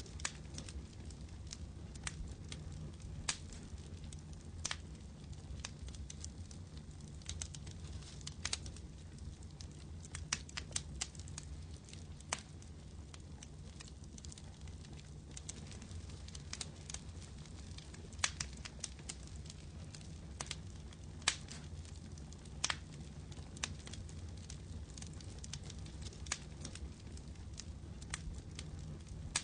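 Firewood burning in a campfire, crackling with irregular sharp pops and snaps over a steady low rumble.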